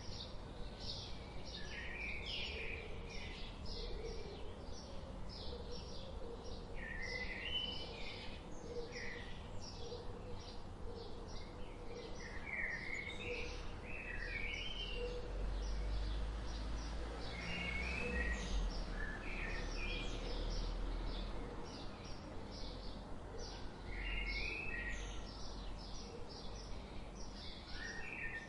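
Tropical forest birds calling: a dense run of short high chirps, several a second, with a zigzag whistled phrase from another bird every few seconds. A low rumble sits underneath, strongest around the middle.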